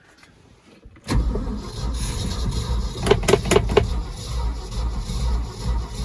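1971 Ford F600's FT-series V8 catching about a second in and running with a low rumble. A few sharp knocks come a little after the middle. The engine has a loose rod and shot rod bearings.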